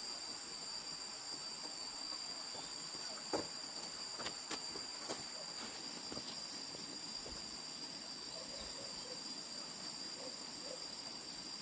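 Insects trilling steadily at a high pitch, with a few sharp knocks between about three and five seconds in.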